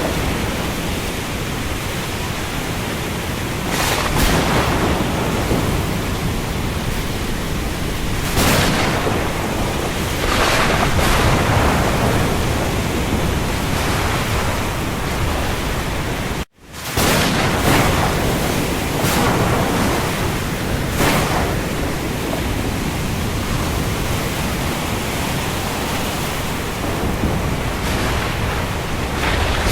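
Steady hiss of heavy rain on the open sea, swelling in brief surges every few seconds. About sixteen seconds in, the sound cuts out for a moment and starts again, where the recording is spliced.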